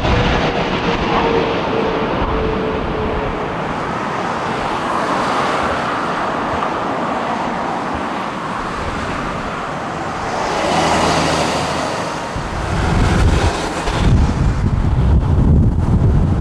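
Jet airliner engines passing, with a steady roar and a whine that falls in pitch over the first few seconds as the aircraft goes by. Wind buffets the microphone over the last few seconds.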